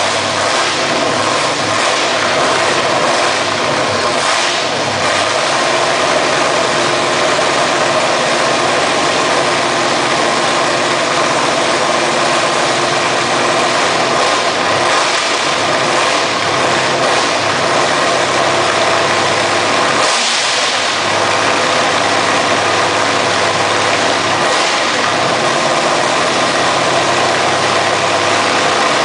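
V8 car engine running at a steady rumbling idle, with about four short blips of the throttle spread through.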